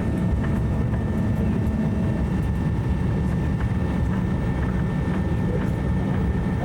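Steady low drone of propeller aircraft piston engines running at constant power, with no rise or fall in level.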